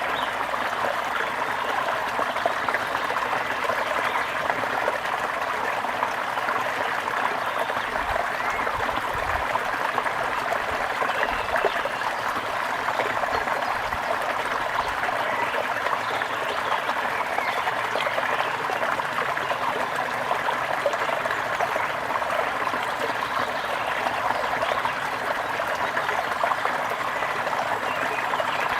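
Water in a stream running steadily, an even rushing trickle with no breaks.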